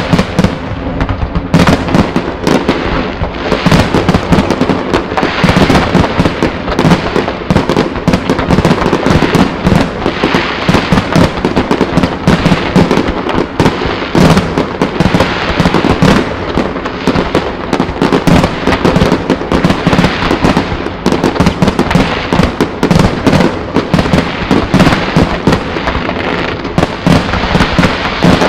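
Fireworks display: aerial shells bursting in a dense, continuous run of bangs, many overlapping, with no pause.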